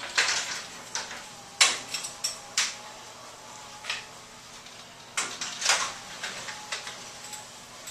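Motorized garage screen door running down its track, with irregular clacks and rattles as it descends.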